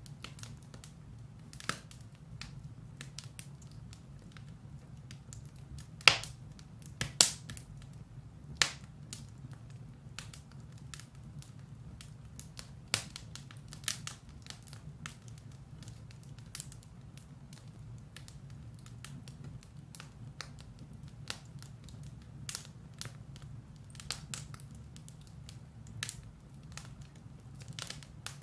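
Firewood burning in a fireplace: irregular sharp crackles and pops over a steady low rumble, with a few louder pops about six to nine seconds in.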